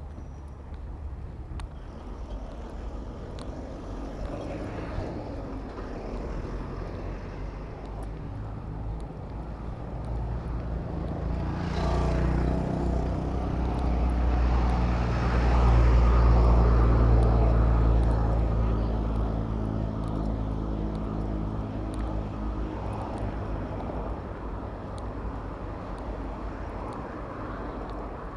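Road traffic heard from a moving bicycle: a large motor vehicle's engine drones, growing louder to a peak about halfway through, then fading as it passes, over a steady low rumble.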